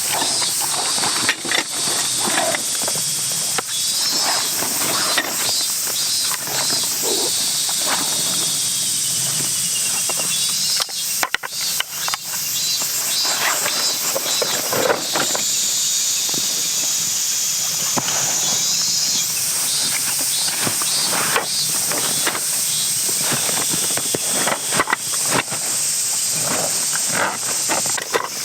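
A steady high-pitched insect buzz, with short repeated chirping trills coming and going, over frequent small clicks and knocks of things being handled.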